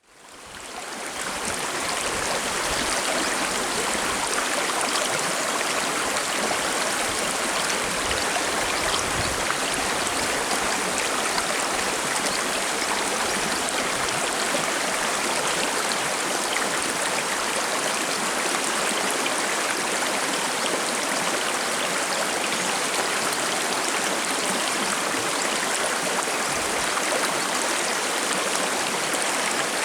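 Forest river stream flowing over rocks: a steady burbling rush of water that fades in over the first second or two.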